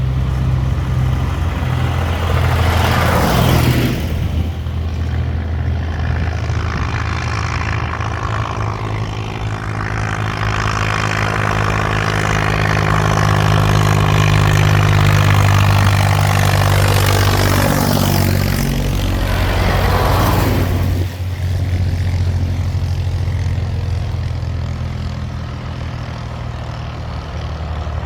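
Tractor engines running as a line of tractors drives past, with one passing close about three seconds in and another near the twenty-second mark.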